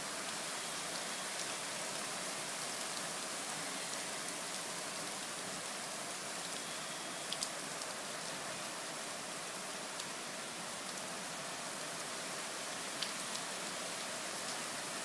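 Thunderstorm downpour: a steady dense hiss of heavy rain, with a few sharper drop hits standing out about halfway through and near the end.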